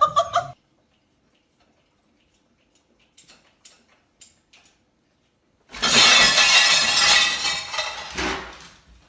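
A loud shattering crash about six seconds in, fading out over the next two to three seconds, with a few faint clicks before it.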